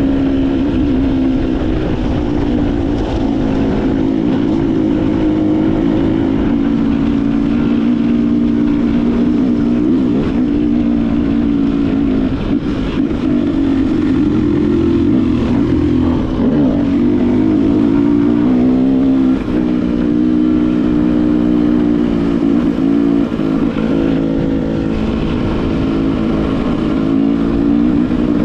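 Motorcycle engine running at a steady cruising speed, its pitch shifting a little now and then, over low wind rumble.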